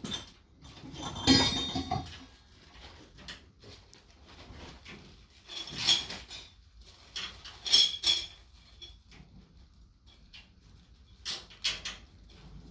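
Irregular metallic clinks and knocks of metal parts or tools being handled, with a louder rattle about a second in and later clusters of sharp clicks.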